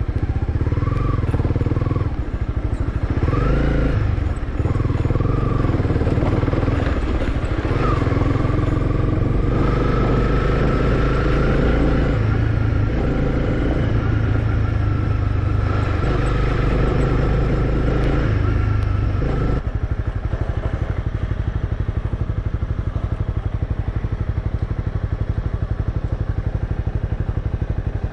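Motorcycle engine running as the bike rides a bumpy, unpaved dirt trail, its note rising and falling with the throttle for most of the first twenty seconds, then steadier.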